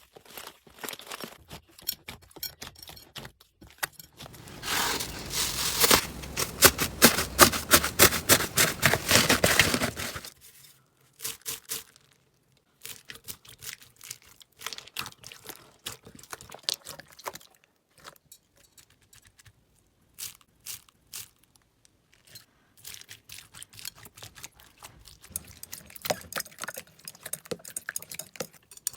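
Slime being handled and pressed, giving runs of small crackling clicks and pops. These are dense and loudest for several seconds early on, then come in sparser bursts with short pauses.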